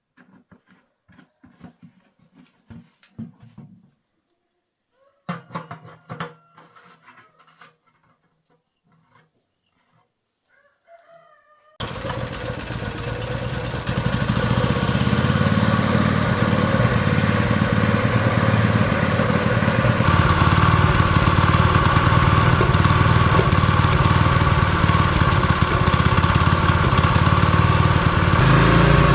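Light clicks and knocks, then a Honda GX200 single-cylinder four-stroke engine starts suddenly about twelve seconds in and runs steadily, picking up speed about two seconds later.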